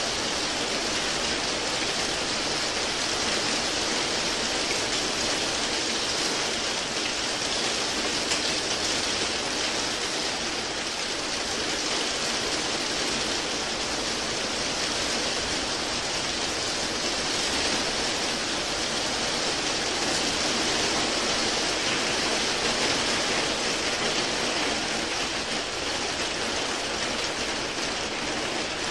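Steady rain falling, an even hiss of many drops with no separate splashes or changes.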